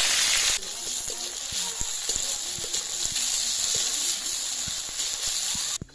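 Sliced onions and bay leaves sizzling in hot oil in a metal karahi, loudest for the first half-second as they hit the oil, then a steady frying hiss with the knocks of a metal spatula stirring against the pan. The sizzle cuts off suddenly near the end.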